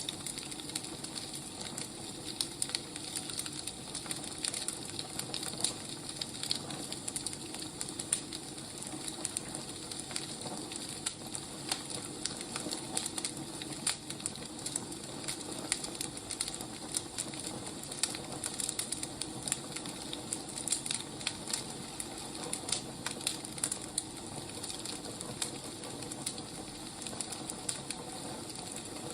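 Burning firewood crackling, with frequent irregular pops over a steady soft hiss.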